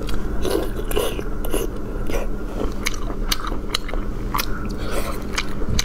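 Close-up chewing and biting of soy-marinated shellfish meat, with many short wet mouth clicks scattered throughout.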